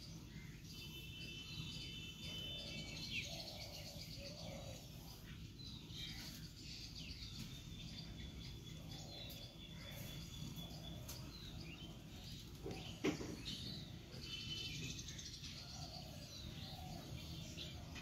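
Birds chirping and trilling in the background over a steady low hum, with a single sharp knock about thirteen seconds in.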